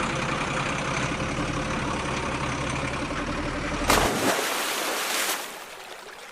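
A motor vehicle's engine running steadily, ending about four seconds in with a short loud burst, followed by a noisy hiss that fades.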